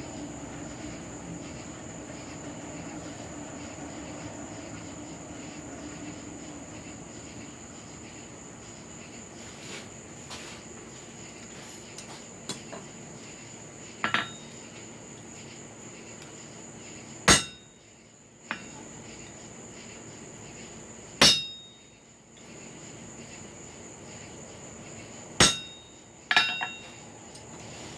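Hammer blows on an anvil, forging a steel cut flooring nail into a hook: a handful of separate strikes spaced one to four seconds apart, each ringing briefly, the loudest three near the middle and toward the end.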